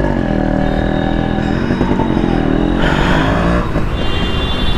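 Yamaha RX100's two-stroke single-cylinder engine revving as the bike is ridden off. Its pitch drops and climbs several times through the gears, with a brief hiss about three seconds in.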